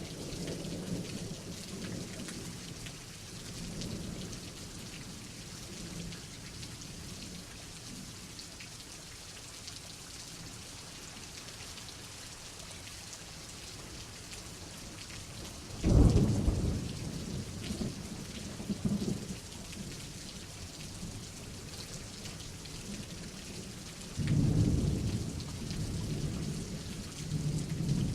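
Thunderstorm: steady heavy rain with rolling thunder. A sudden sharp thunderclap about halfway through is the loudest sound, and another long rumble of thunder rises near the end.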